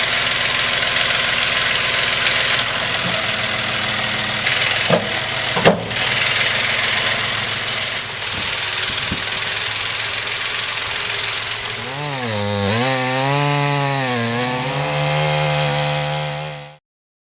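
Chainsaw running at cutting speed through a blown-down tree trunk, with two sharp knocks about five seconds in. Near the end the engine pitch dips and recovers several times, then holds steady before the sound cuts off suddenly.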